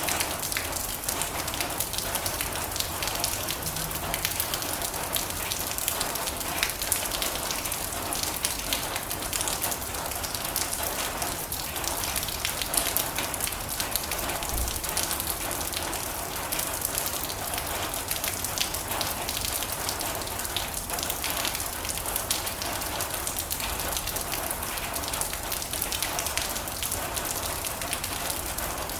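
Steady heavy rain drumming on a metal roof, a dense patter of countless drop ticks.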